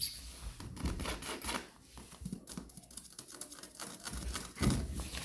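Rapid, irregular clicking and rustling in a small room, with a louder burst near the end.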